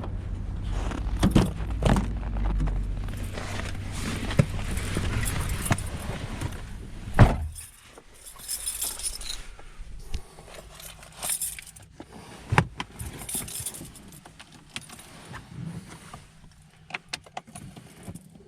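Keys jingling and small clicks and rattles at a car. A low rumble runs for the first seven seconds and ends with one loud knock, after which the sound is much quieter. No engine is running yet.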